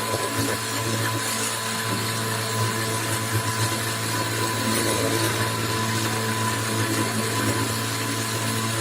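Program-controlled machine tool running a cut: a steady motor hum with a constant high spindle whine and a faint, uneven grinding of the cut.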